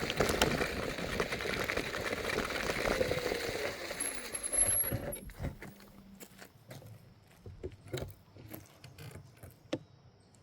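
Electric scooter rolling over a rough surface, rattling and crunching, then stopping abruptly about five seconds in; after that only scattered light clicks.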